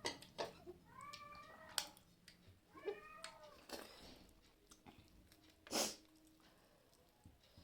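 A cat meowing twice, short arched calls about a second and three seconds in, over faint clicks and a louder brief noise about six seconds in.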